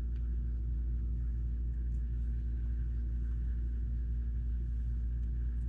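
Steady low hum with a faint buzzing tone above it, unchanging throughout.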